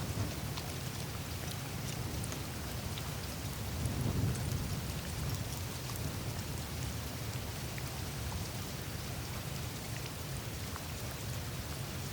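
Surface of a melting glacier on the Greenland ice sheet: a steady hiss of meltwater trickling through the ice, dotted with many tiny crackles and drips. Underneath runs a low rumble that swells briefly about four seconds in.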